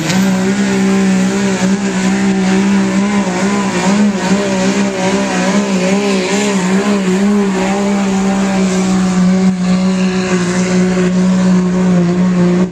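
A vehicle engine running loud at high, nearly constant revs, its pitch wavering slightly under load, then dropping off sharply right at the end.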